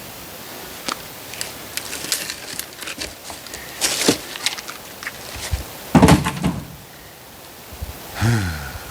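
Oak firewood being handled: scattered knocks and clicks, then a heavy wooden thud about six seconds in, and a brief pitched sound near the end.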